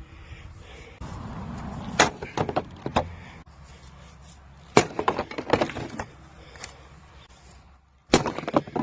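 Splitting maul smashing a mini fridge: three heavy blows, about a second apart, each followed by a clatter of breaking metal and plastic parts.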